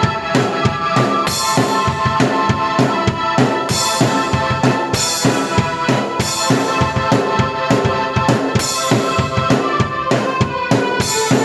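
Drum kit and keyboard played together by one player in a fast original piece: a steady beat of kick and snare under held keyboard chords, with cymbal crashes every few seconds.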